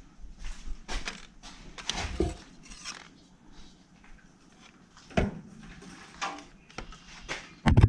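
Irregular clinks, knocks and scrapes of hand tools and metal parts being handled while working under a car, with a loud clank near the end.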